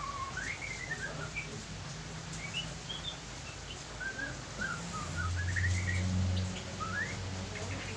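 Birds chirping in short rising and falling notes, scattered through, over a low steady hum that grows louder for a second or so about five seconds in.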